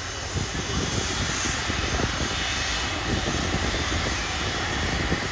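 Jet airliner engine noise, a steady even rumble and hiss that holds without clearly rising or falling.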